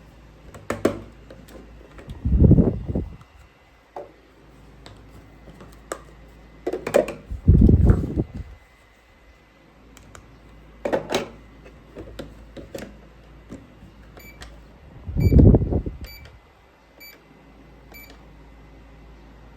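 Plastic toy microwave oven being handled, with scattered clicks and a few dull bumps, then five short electronic beeps, evenly spaced about three-quarters of a second apart, near the end.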